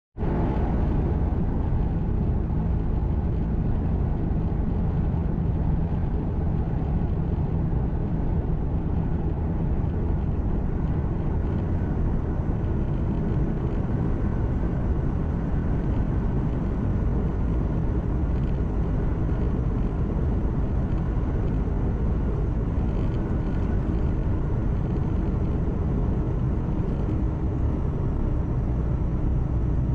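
Steady low rumble of a truck's engine and tyre and road noise heard inside the cab while driving along the road.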